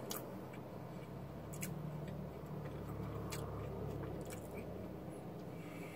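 A person chewing a mouthful of taco, with a few scattered sharp clicks and a low rumble that swells in the middle.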